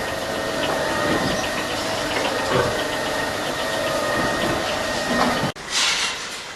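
TMR feed mixer running after repair, its electric motor and chain drive making a steady mechanical drone with a faint whine. About five and a half seconds in, the sound cuts off abruptly and a short hiss follows.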